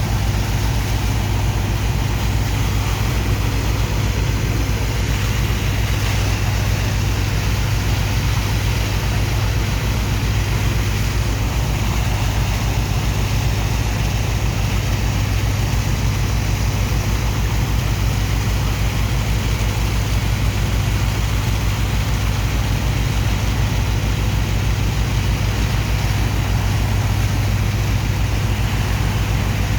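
Heavy engine of a sand-dredging pump running steadily at a constant low hum with a fast, even beat, over a continuous rush of pumped water and sand.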